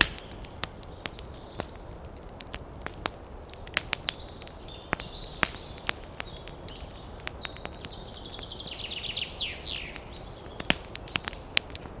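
Campfire crackling, with sharp pops at irregular moments, over a steady low rumble of wind. Birds chirp high above it, with a quick run of falling notes near the end.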